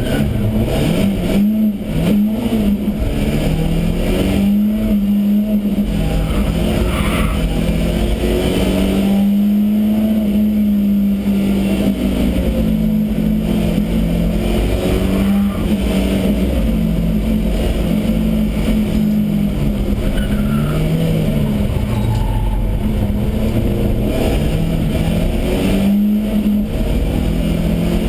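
BMW E30 318is race car's four-cylinder engine at full racing pace, heard from inside the stripped, caged cabin, its pitch climbing through each gear and dropping repeatedly at shifts and under braking.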